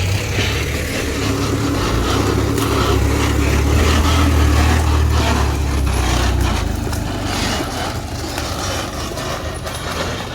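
Off-road 4x4 vehicle's engine running hard under load, getting louder toward the middle and then easing off.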